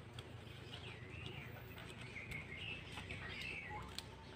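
Faint bird chirps in the background, in short rising and falling calls through the middle, with a few soft clicks and one sharper click near the end.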